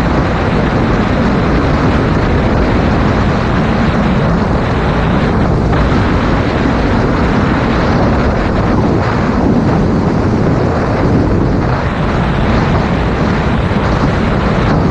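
Loud, steady wind buffeting on a GoPro Hero 5 Black's microphone on a moving 2019 Yamaha MT-07 motorcycle, with the bike's parallel-twin engine running underneath the wind.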